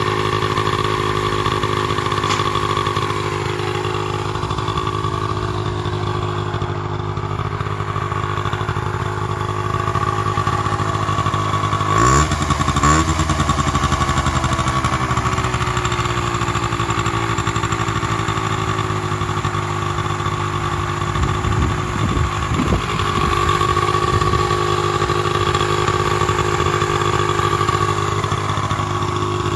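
Gilera Eaglet 50 bobber's small single-cylinder engine idling steadily, with one short throttle blip about twelve seconds in, the revs rising and falling back within about a second.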